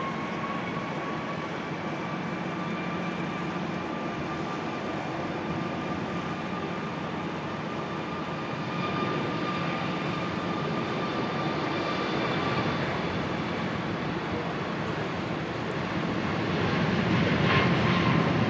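Jet airliner's engines running, a steady rush of noise with a thin high whine above it. The noise grows louder near the end.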